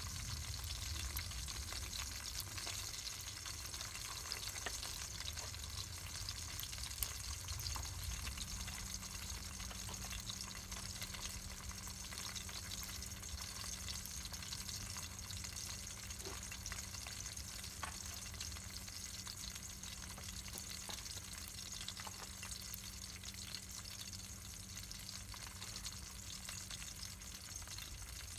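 Steady crackling and sizzling of a wood campfire with pork roasting over it: many small pops and ticks over a continuous hiss.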